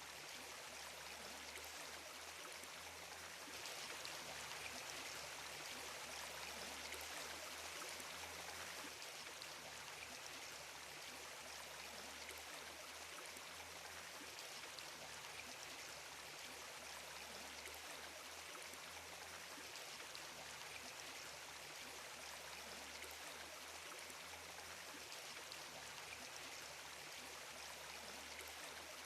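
Steady rush of flowing stream water, a little louder from a few seconds in until about nine seconds in.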